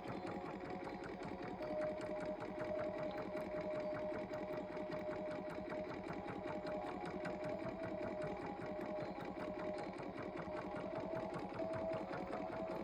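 Ocean Wonders toy aquarium's small electric motor and plastic gear train running, a rapid, even mechanical clatter with a thin wavering whine, its worn gear rubber bands newly replaced.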